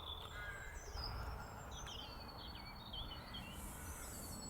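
Birds chirping and calling in many short, quick notes, over a faint low background rumble.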